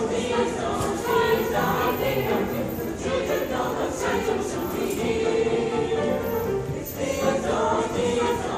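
Student choir singing, many voices together in held, flowing phrases.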